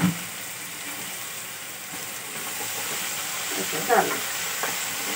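Vegetables for masala upma sizzling steadily as they fry in a pan on a gas stove. Near the end a wooden spatula stirs through them with a few clicks against the pan.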